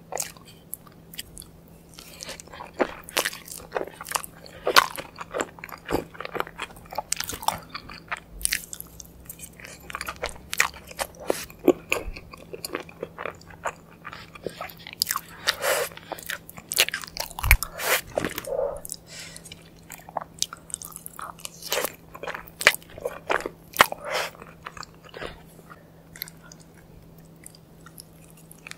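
Close-miked ASMR eating of crunchy fried food: repeated crisp bites and chewing with sharp crackles, starting about two seconds in, over a faint steady low hum.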